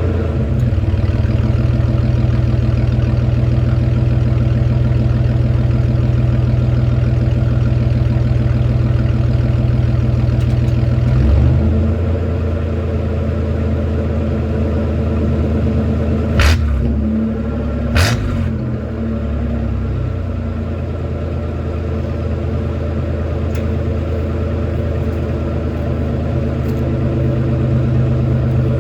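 Chevrolet S10's 4.3-litre V6 running steadily through a straight-piped 3-inch loop exhaust. Its note drops and quietens about a third of the way in, then builds again near the end. Just past halfway there are two sharp cracks about a second and a half apart.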